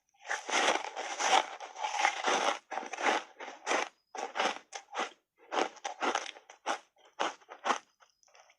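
Crunchy reshaped foam ice being bitten and chewed close to the microphone: a dense run of crunching at first, then separate sharp crunches about two a second, thinning out near the end.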